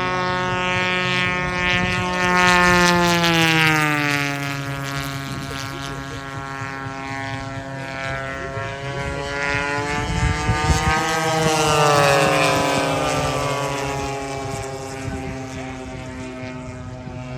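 Large-scale RC model warplane's two-stroke gasoline twin engine at full throttle, making two low passes. Each pass swells loud and then drops in pitch as the plane goes by, the first a few seconds in and the second near the middle.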